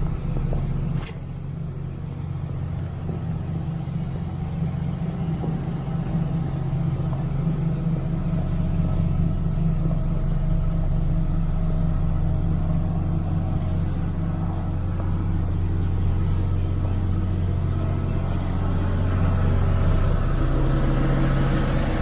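Street traffic with a large motor vehicle's engine running close by, giving a steady low rumble that swells gradually, and a sharp click about a second in.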